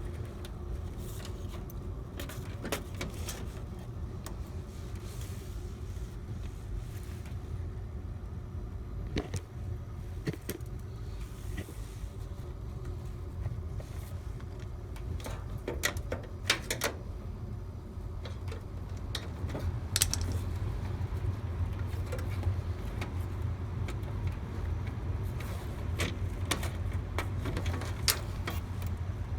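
Hands and tools working on furnace parts: scattered clicks and light metal rattles over a steady low hum, with a few louder clicks partway through.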